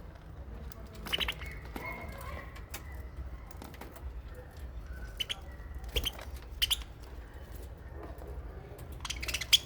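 Aviary budgies and lovebirds giving short, sharp chirps and wing flutters here and there, the loudest near the end, over a low steady rumble.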